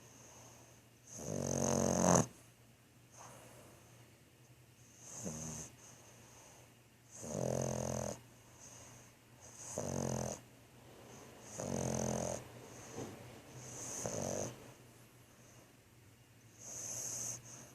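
French bulldog snoring in its sleep: a snore about every two seconds, seven or so in all, the first the loudest.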